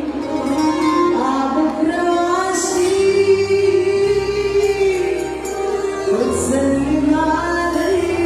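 A woman singing an Arabic song with band accompaniment, holding long notes that bend up and down over a steady bass line.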